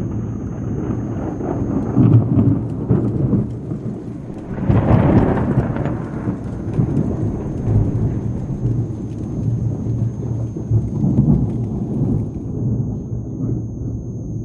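Thunder rumbling on and on in a rainstorm, swelling to a louder peal about five seconds in, over the steady hiss of rain.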